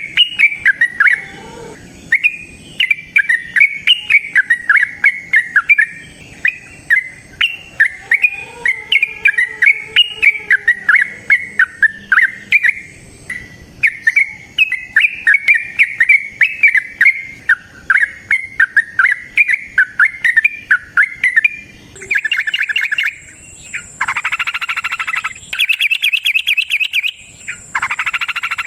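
Yellow-vented bulbul (trucukan) singing long, unbroken runs of rapid bubbling, warbling notes. About 22 seconds in, the song gives way to denser, harsher bursts of chattering.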